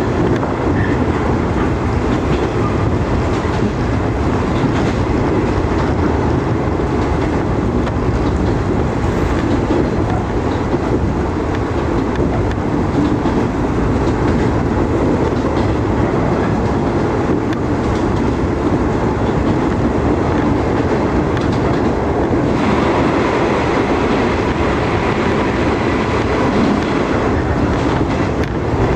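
Electric train running at speed, heard from inside the carriage: a steady rumble of wheels on rails. About 22 seconds in, the hiss quietens and a faint steady whine comes in.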